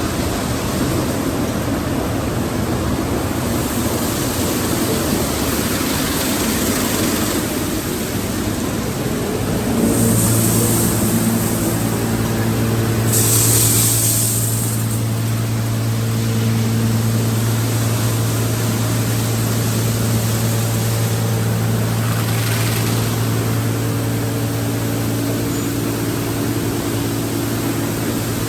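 Automatic car wash tunnel equipment running with a steady mechanical din. About ten seconds in, a motor starts a steady hum that holds, and there are short hissing bursts around then, again a few seconds later, and more faintly near the two-thirds point.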